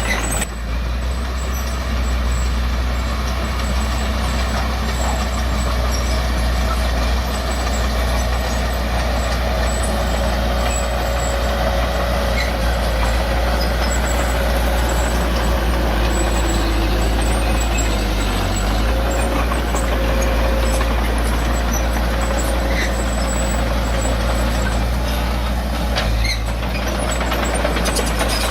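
Heavy diesel engine of earthmoving machinery running steadily, with a deep, even rumble and no clear breaks.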